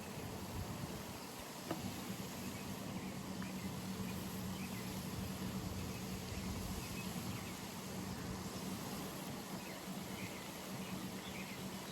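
Pond-side outdoor ambience: a steady background hiss under a low, even hum, with faint scattered chirps and one small click a little under two seconds in.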